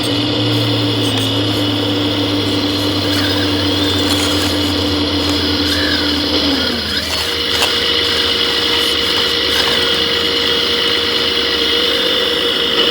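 Steady electric motor and gear whine of 1:14 scale RC construction machines at work. The pitch drops about two-thirds of the way through, then settles on a higher steady whine.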